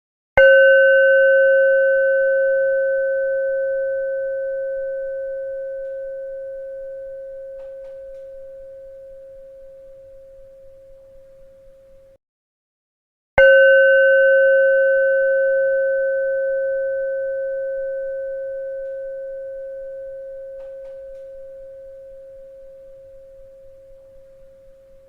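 A bell struck twice, about thirteen seconds apart. Each strike rings out in one clear, steady tone with fainter higher overtones and fades slowly. The first ring cuts off abruptly, leaving a brief silence before the next strike.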